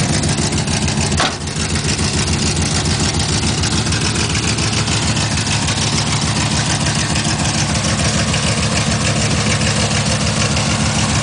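Built 350 V8 of a 1970 Buick Skylark GS, with racing cam, headers and dual exhaust, idling steadily with an even, pulsing exhaust beat. A short knock comes about a second in.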